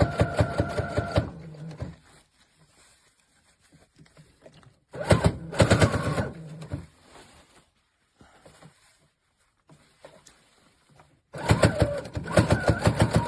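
Brother FS100WT sewing machine running in three short bursts with quiet gaps between: a motor whine with a rapid, even clatter of about eight needle strokes a second. The owner says the machine doesn't work properly.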